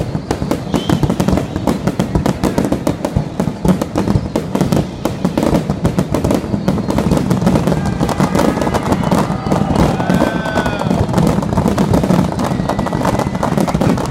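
Fireworks crackling and popping densely and without pause, a continuous rapid crackle of many small bursts. Some rising and falling tones come through in the second half.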